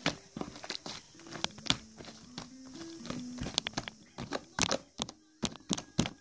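Irregular sharp taps and clicks, several a second, over a faint low tone that steps up and down in pitch like a simple tune.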